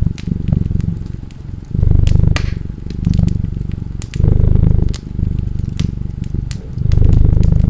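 A cat purring, the low rumble swelling and fading every second or so, over the sharp snaps and pops of a crackling wood fire.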